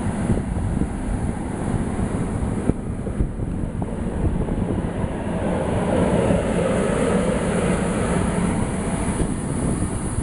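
Fiat Pendolino electric trainset passing close along a station platform: a steady rumble of wheels on the rails as its cars go by.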